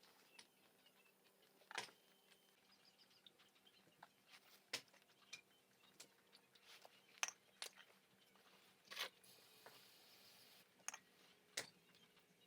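Faint, irregular light clicks and taps of small parts or tools being handled, about a dozen, with a brief hiss about three quarters of the way through.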